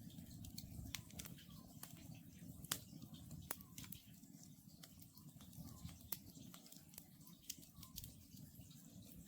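Wood campfire crackling, with frequent sharp pops over a low steady rumble of the flames. Faint, repeated calls of an Oriental scops owl come through every second or two.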